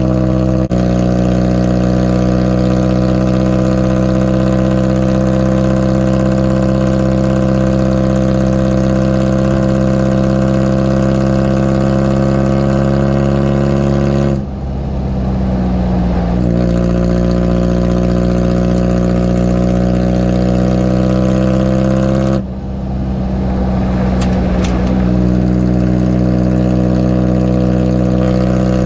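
Toyota HiLux LN147's 3.0-litre diesel engine running through a homemade exhaust, a steady drone whose pitch creeps slowly upward. Twice, about 14 and 22 seconds in, it drops away briefly, comes back a little lower and climbs again.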